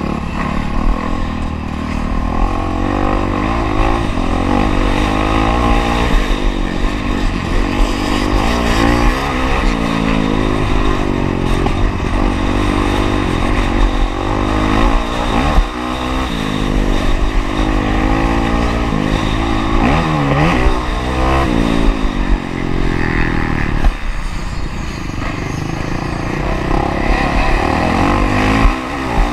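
Honda CRF450R's single-cylinder four-stroke engine on a motocross track, revving up and falling back over and over as the rider accelerates, shifts and rolls off between corners and jumps.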